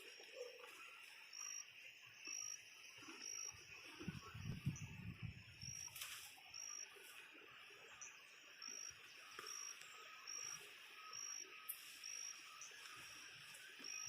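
Faint insects calling: a short high chirp repeats about once a second over a steady high buzz. For a couple of seconds near the middle a louder low rustling noise comes in.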